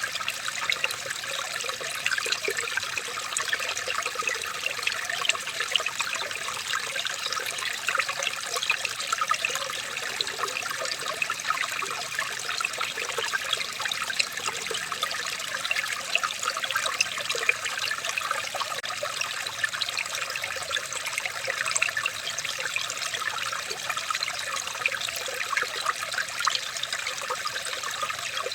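Water running and trickling steadily, a continuous bubbling rush made of many small splashes, with no change in level.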